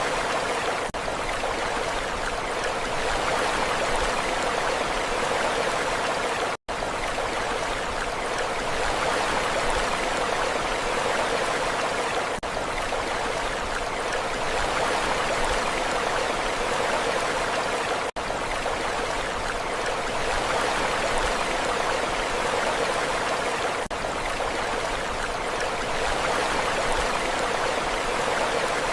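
Steady rushing water with an even, unchanging hiss and no rise and fall of breaking waves. It runs as a short loop with faint seams about every six seconds and cuts out completely for a split second about six and a half seconds in.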